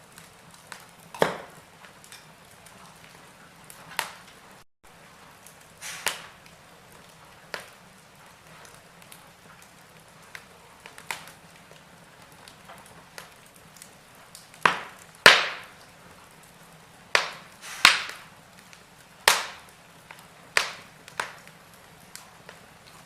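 Wood fire in a fireplace crackling, with irregular sharp pops of burning logs over a faint steady hiss. The loudest pops come close together about two thirds of the way through.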